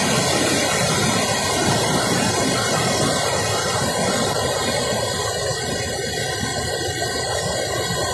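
Floodwater rushing down a swollen river in a flash flood: a loud, steady rushing of water.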